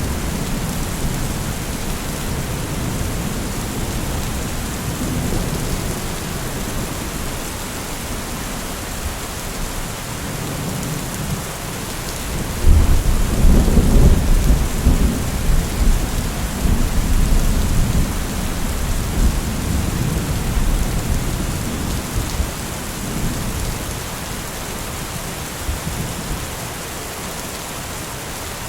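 Steady rain falling, with thunder rumbling low throughout; a louder roll of thunder breaks in about halfway and rumbles away over several seconds.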